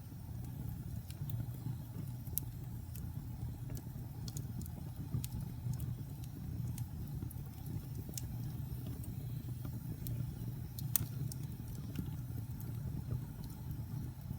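Wood fire burning in a fireplace: a steady low rumble of flames with scattered sharp crackles and pops, one louder pop about eleven seconds in.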